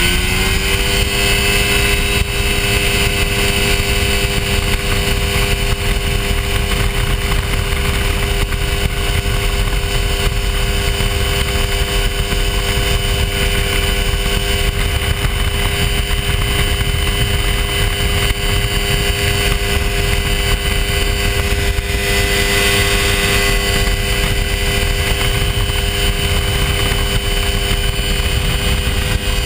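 Hy-Tek Hurricane ultralight's engine and propeller running at a steady throttle, rising slightly in pitch in the first second and then holding one even drone, with wind rumble underneath.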